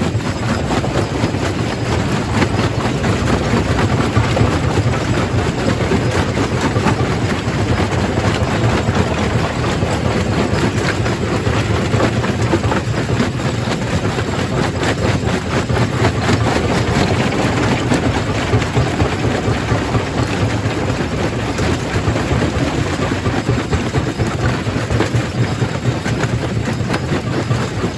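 Quarry primary rock crusher running: a steady heavy machine din with constant clatter and cracking of stone being crushed.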